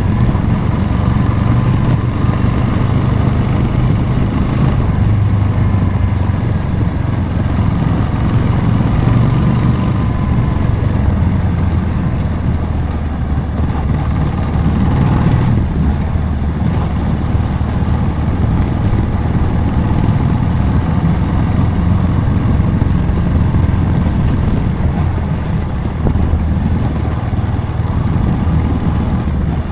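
Motorcycle engine running steadily while riding. The engine note shifts up and down a few times as the throttle changes.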